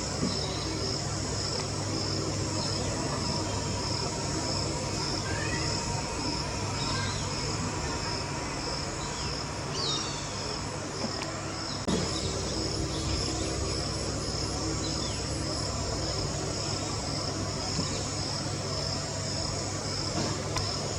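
A steady chorus of insects, crickets or cicadas, making a high, evenly pulsing trill. A few short bird chirps come through now and then.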